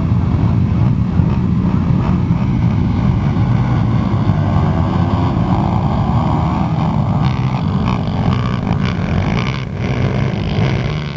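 Pit bike engines running at race pace, their pitch rising and falling as they rev and shift.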